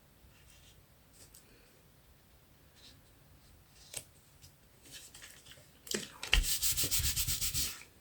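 Rapid scratchy rubbing on paper or card, about ten quick strokes a second for just under two seconds near the end, after a faint click about four seconds in.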